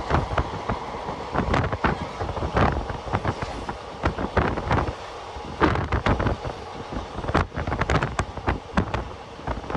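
Passenger train coach running along the track, with irregular sharp clatter and knocks from the wheels and running gear over the rails and a steady rush of wind buffeting the microphone.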